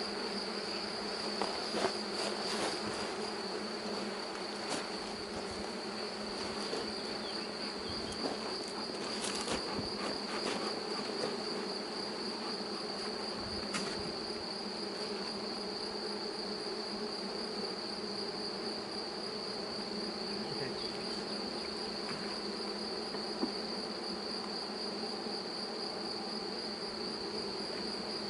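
A mass of honeybees from a swarm buzzing steadily, a dense hum, with a steady high-pitched whine alongside it and a few light knocks in the first half.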